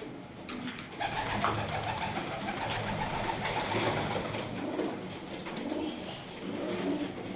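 Domestic pigeons cooing in a small enclosed space, with a busier noisy stretch starting about a second in.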